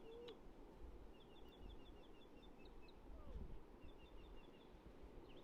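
Faint bird chirping: two quick runs of short high chirps, about a second in and again near four seconds, over a low steady background rumble.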